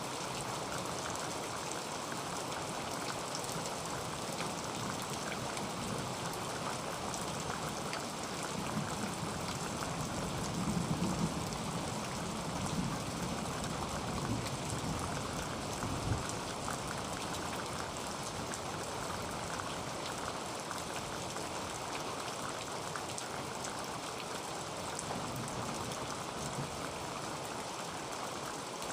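Heavy rain drumming steadily on a tin roof, a dense even patter of drops on metal. About midway, a low swell rises for a few seconds, and a single sharper knock comes just after it.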